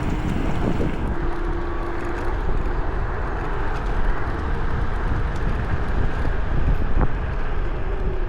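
Electric scooter ride heard from a chest-mounted camera: steady wind rush and low road rumble, with a faint steady whine from the scooter's hub motor.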